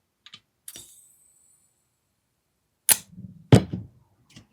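AAP-01 gas blowback airsoft pistol: a few small clicks and a brief hiss of gas about a second in as it is charged with gas, then two sharp clacks from the pistol about three and three and a half seconds in.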